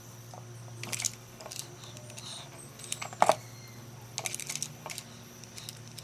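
Irregular light clicks and taps in small clusters, with one louder knock about three seconds in, over a steady low hum.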